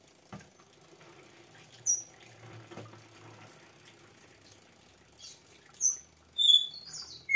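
Small birds chirping: short, high, falling chirps about two seconds in, again near six seconds, and several in quick succession near the end. Underneath, a faint trickle of thick homemade liquid soap being poured from a jug into a plastic bottle.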